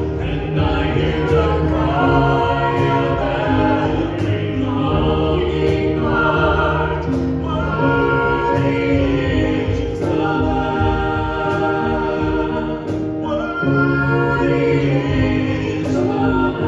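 Congregation singing a hymn in chorus with instrumental accompaniment, with a faint regular beat about every second and a half.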